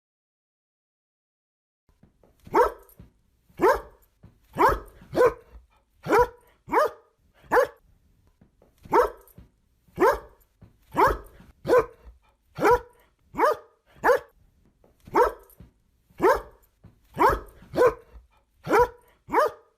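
Angry dog barking, starting about two seconds in, with short barks repeated every second or so, often in quick pairs.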